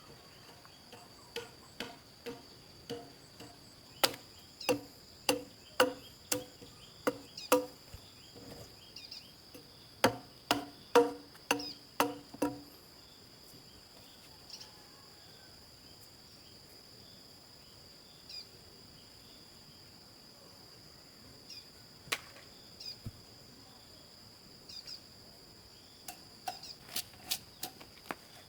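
Repeated sharp knocks, about one to two a second, in a run over the first twelve seconds and again near the end. Under them runs a steady high trill of crickets or other insects.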